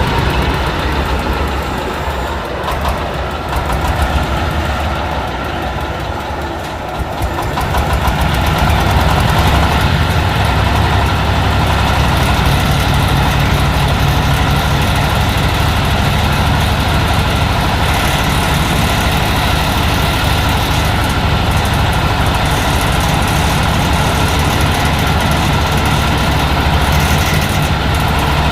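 Corn sheller driven by a 26 HP Dong Feng single-cylinder diesel engine, running steadily; it gets louder about seven seconds in.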